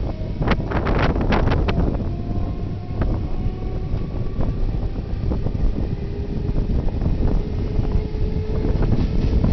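Rumble of a moving passenger train heard from on board, with wind buffeting the microphone. A few sharp clacks in the first second and a half, then faint thin whining tones over the steady noise.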